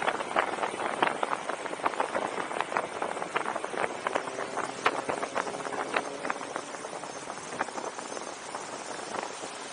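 Mate-X fat-tire electric bike being ridden, rattling with irregular clicks and knocks several times a second over a steady hiss of wind and road noise. The knocks thin out after about seven seconds, leaving mostly the hiss.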